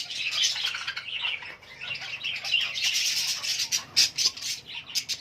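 A mixed aviary flock of budgerigars and Fischer's lovebirds chattering and chirping without pause, with a few sharper, louder squawks about four seconds in.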